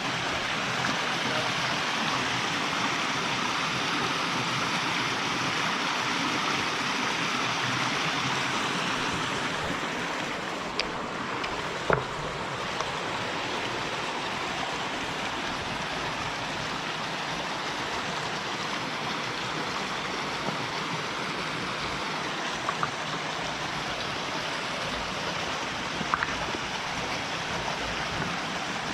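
Mountain stream rushing steadily, somewhat louder in the first third, with a few short sharp clicks on top.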